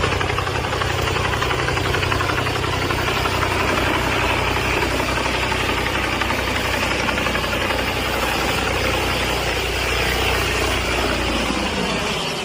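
Bell 222 twin-turbine helicopter's engines and rotor running loud and steady as it arrives. Its low rotor drone drops away about twelve seconds in.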